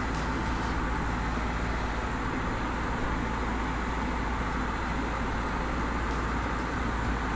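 Cessna 152's four-cylinder Lycoming engine running steadily at reduced power on final approach, with propeller and airflow noise filling the cabin.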